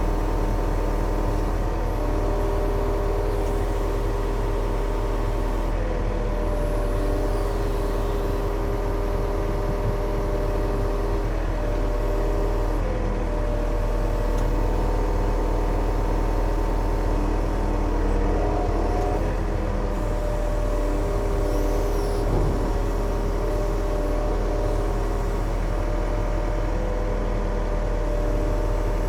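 Yanmar diesel engine running steadily under work, its note shifting a little in pitch now and then.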